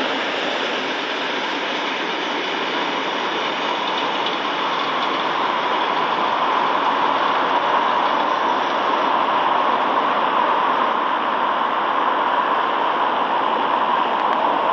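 Freight train of covered hopper wagons rolling steadily along the rails, a continuous rumble of wheels on track that grows slightly louder in the second half.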